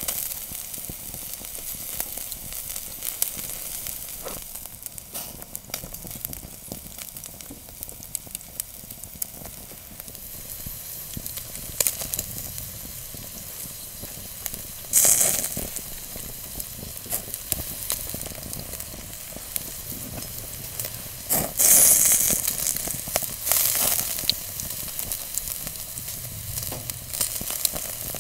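Beef ribeye sizzling on a grill over a wood fire, a steady hiss with small crackles and pops. Sudden louder bursts of sizzling come about halfway through and twice more a little later.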